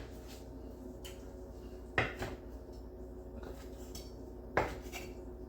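A knife cutting seared chicken thighs into strips, knocking sharply on the cutting board a few times, the loudest knocks about two seconds in and near the end. A steady low hum runs underneath.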